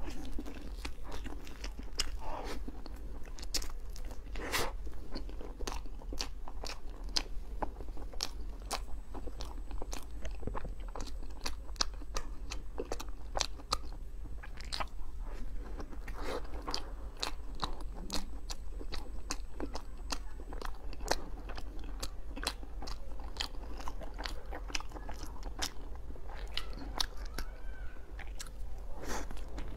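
Close-miked chewing of a soft cream-filled mochi cake: wet, sticky mouth sounds with a stream of sharp lip smacks and clicks, several a second.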